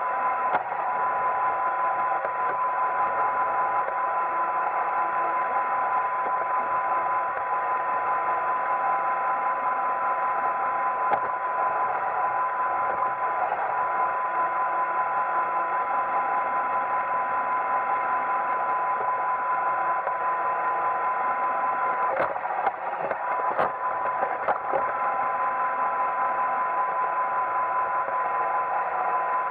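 Roomba 880 robot vacuum running: a steady whir with a constant high whine, and a few brief knocks about three-quarters of the way through.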